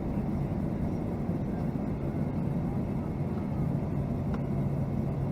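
Steady drone of a Boeing 757-200 airliner heard from inside the cabin: jet engine and air noise with a constant low hum.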